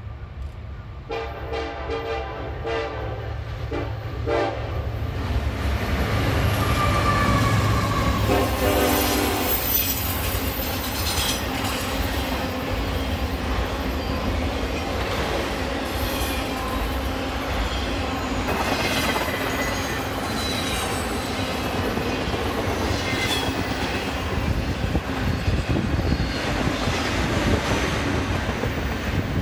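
Freight train horn sounding in several blasts near the start and once more about eight seconds in, then a container train of double-stack well cars rolling past, wheels rumbling and clicking over the rail joints with squeals that rise and fall.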